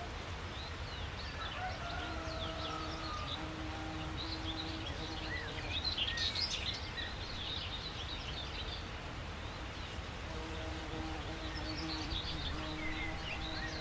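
Several songbirds chirping and twittering, busiest about six seconds in, over a steady low outdoor rumble. A low hum comes and goes in short stretches.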